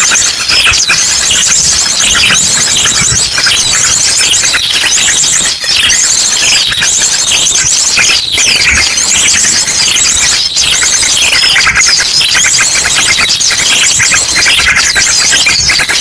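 Bird-lure recording: a loud, dense chorus of many small birds chattering and calling, mixed with the rapid bursts of an ashy drongo's song. Fast, high-pitched trills repeat every second or two over the continuous chatter.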